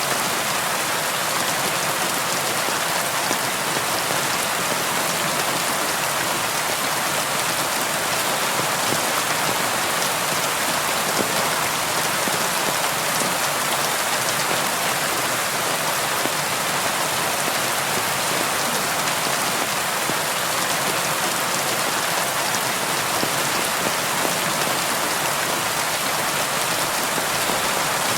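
Steady rain falling, a constant even hiss of drops with fine patter.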